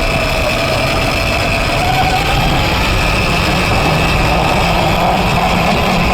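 Electric dirt bike's TORP TM50 Pro motor whining while riding, its pitch drifting up and down with the throttle, over a steady higher whine and a dense low rumble from the bike moving over rough ground.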